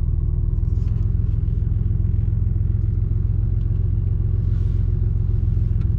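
A car's engine and tyre noise, heard from inside the moving car as a steady low rumble.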